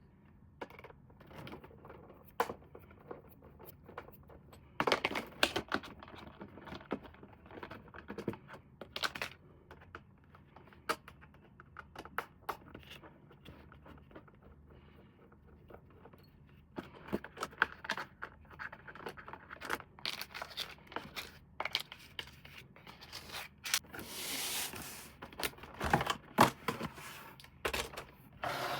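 Hands unpacking and handling packaging and plastic toy parts: scattered clicks, scratches and rustles, with a longer tearing rustle about 24 seconds in.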